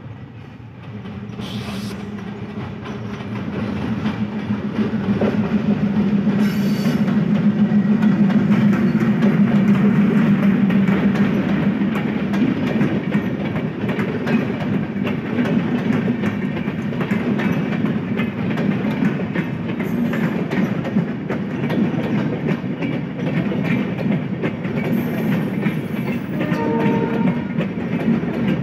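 Diesel locomotive and intercity passenger coaches passing close by. The engine's low drone builds over the first several seconds as the train nears, then the coach wheels keep up a steady rapid clatter over the rail joints as the carriages roll past. A short tone sounds near the end.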